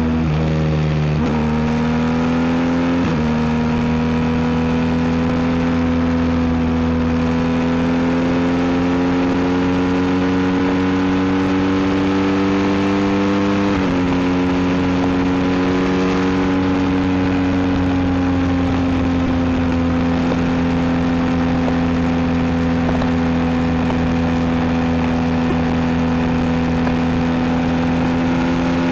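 BMW R1250 GS boxer-twin engine through an Akrapovic exhaust, heard while riding: the engine note climbs under acceleration and drops suddenly at upshifts about a second in, about three seconds in and about fourteen seconds in, then holds a steady cruising note.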